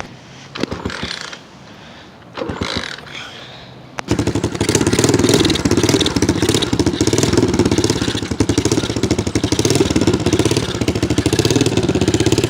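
A 90cc dirt bike's single-cylinder engine catches suddenly about four seconds in and then runs steadily, after a few seconds of quieter handling noise.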